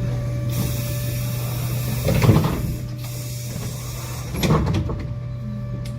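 Tram interior while it runs: a steady electrical hum with a fixed higher tone underneath, a hiss that cuts off at about three seconds, and two heavy thumps about two seconds apart.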